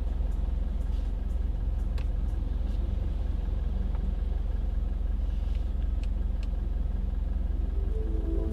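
Mitsubishi Pajero's engine idling, a steady low rumble with a few faint clicks.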